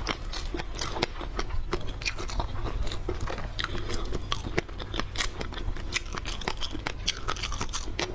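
Seafood being chewed and crunched close to the microphone: a quick, irregular run of crisp clicks and crunches.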